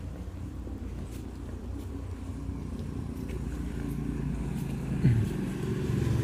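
A motor vehicle's engine running and growing louder as it approaches, with a short rise in pitch about five seconds in.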